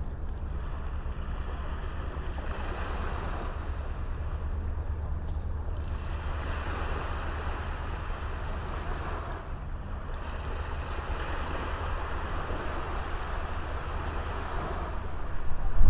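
Small sea waves breaking and washing up a beach, swelling and easing every few seconds, with a steady low wind rumble on the microphone.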